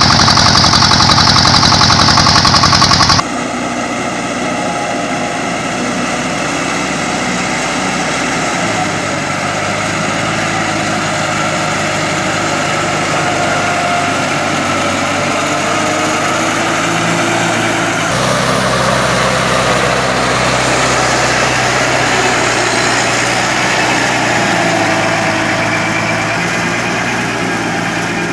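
Diesel engines of two-wheel walking tractors running. About three seconds in, the sound cuts abruptly from a loud, close engine firing rapidly to a quieter engine, and it changes abruptly again about eighteen seconds in.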